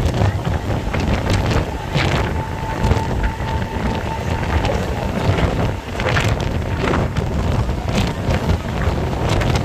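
Wind buffeting the microphone at the open doorway of a moving Mumbai suburban electric local train, over the low rumble of the coach running on the track, with irregular knocks and rattles. A faint steady whine is heard for a few seconds near the start.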